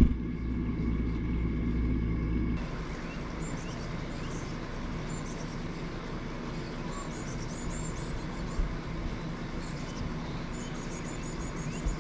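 Small birds chirping faintly in short, high clusters over a steady hiss. Before them, a steady low hum stops abruptly about two and a half seconds in.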